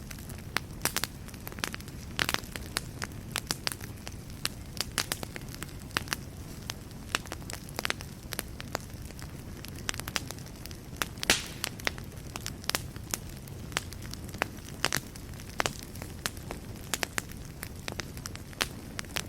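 Fire in a fireplace crackling, with irregular sharp pops over a low, steady rumble of flames. The loudest pop comes a little past halfway.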